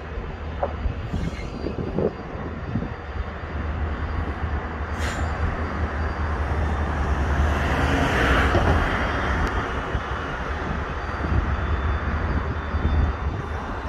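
A train passing on the track. Its noise swells to a peak about eight seconds in and then eases off over a steady low rumble, with a few sharp clicks.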